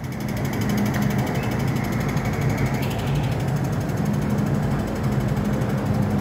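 MTR electric train moving at a station platform: a steady rumble with a low motor hum, and a faint high whine that stops about three seconds in.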